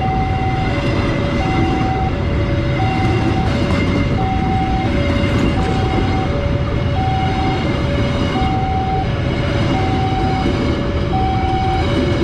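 Level-crossing warning signal sounding its steady two-tone alternating chime, a higher and a lower note taking turns about every 0.7 s, over the loud continuous rumble of a passing train.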